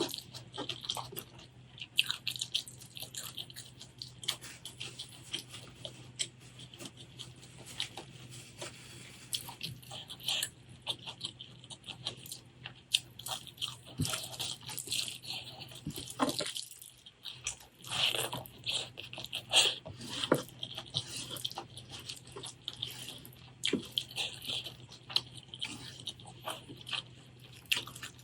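Close-miked eating: irregular crunching bites and wet chewing and mouth sounds, over a faint steady low hum.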